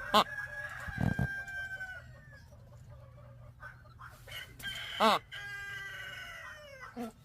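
A bird giving two long, drawn-out crowing calls, each held about two seconds and falling in pitch at the end. Each call follows a short, loud squawk: one at the start and one about five seconds in.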